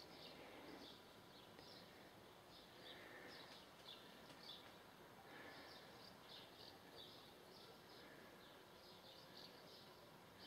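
Near silence outdoors: faint background hiss with many short, high chirps of distant small birds scattered throughout.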